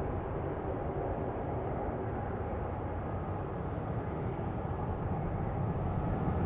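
Jet airliner engines running at a distance: a steady low rumble that grows slightly louder near the end.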